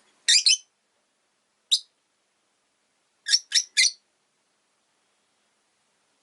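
Rosy-faced lovebird giving short, shrill chirps: a pair, then a single, then three in quick succession.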